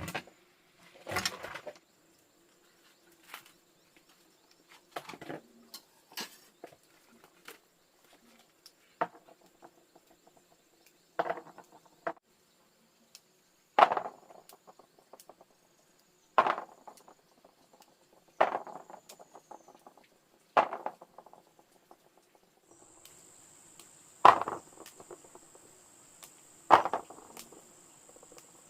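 Repeated sharp knocks, about one every two to three seconds, each with a short ring, over a steady high insect buzz that grows louder near the end.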